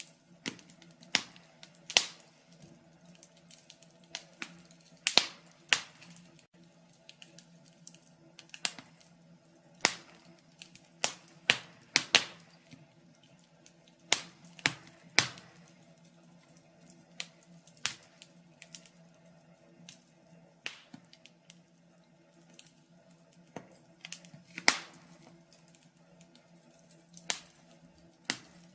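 Wood fire crackling: irregular sharp pops and snaps, a few of them louder, over a faint steady low hum.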